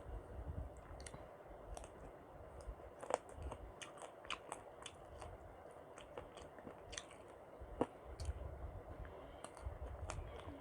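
Close-miked chewing of khichuri: wet mouth clicks and smacks over soft low chewing, with two sharper clicks about three and eight seconds in.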